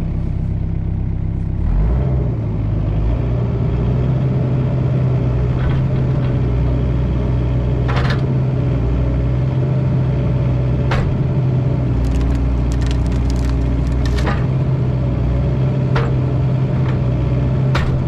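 Mini excavator's diesel engine running steadily under load, stepping up about two seconds in. Occasional short sharp cracks and clatters sound over it.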